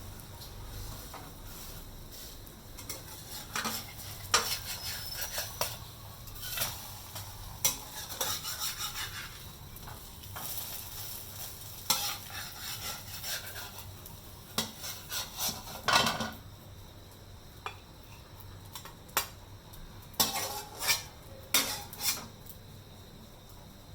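A metal utensil scraping and clinking against a frying pan in irregular runs while food is stirred, over a faint sizzle of frying. The strokes thin out and grow quieter in the last third.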